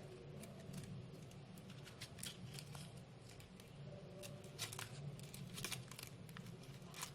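Faint crinkling and rustling of crepe-paper leaves and green floral tape being handled and wound around a wire stem, a scatter of small crackles over a steady low hum.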